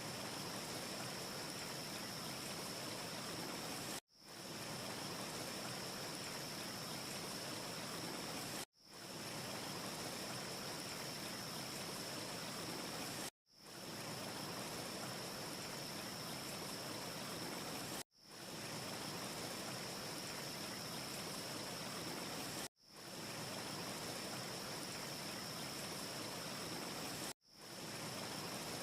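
Steady rushing noise of a looped ambience track, with a thin steady high hiss on top and no crackles. It cuts out abruptly about every four and a half seconds, six times, and swells back in within a moment each time.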